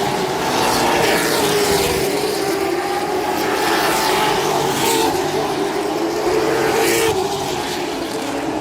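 Stock car engines running around a short oval track, a steady loud drone whose pitch rises and falls as the cars work the corners and straights, with brief louder sweeps as cars pass close by.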